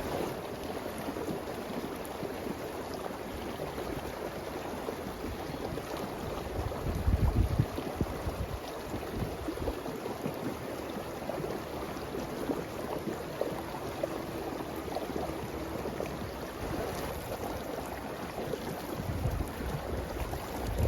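Outdoor ambience: a steady rushing noise, with low gusts of wind buffeting the microphone about seven seconds in and again near the end.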